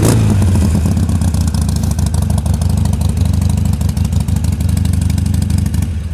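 2011 Harley-Davidson Sportster 883's fuel-injected 883cc air-cooled V-twin idling steadily, a rapid train of exhaust pulses through what the seller takes to be probably upgraded mufflers.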